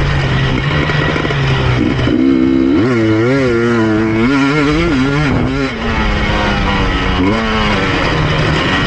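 KTM EXC 250 TPI two-stroke single-cylinder engine being ridden hard, heard from the rider's helmet chin bar. It holds a low steady note, then revs climb and waver up and down for a few seconds, drop briefly, and pick up again near the end.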